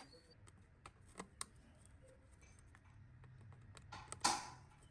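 Scattered light clicks and taps, with a short, louder scrape about four seconds in, as small parts and hand tools are handled at the workbench.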